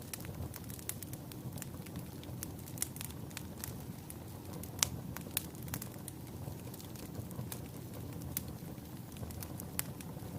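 Wood fire burning in a fireplace: a steady low rumble of flames with scattered sharp crackles and pops from the logs, one louder pop about halfway through.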